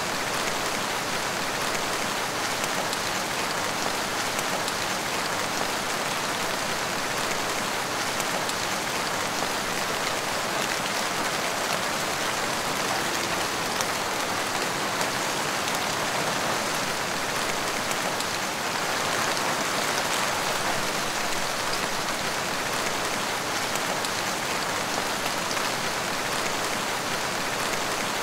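Heavy rain falling steadily, a dense even patter of drops on surfaces with no change in strength.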